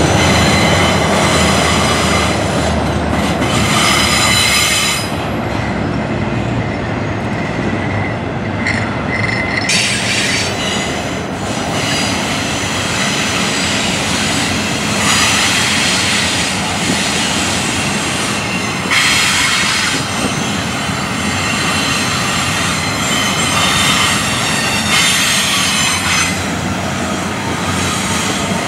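Double-stack intermodal freight cars rolling past at close range: a steady rumble and clatter of steel wheels on rail, with a high-pitched wheel squeal that comes and goes every few seconds.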